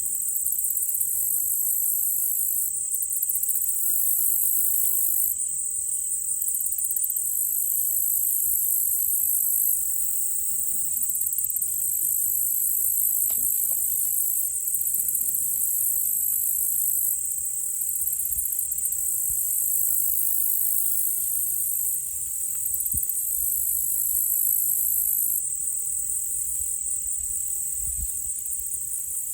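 A dense chorus of insects, high-pitched and pulsing, whose rhythm and texture shift every few seconds. A faint sharp click comes about thirteen seconds in.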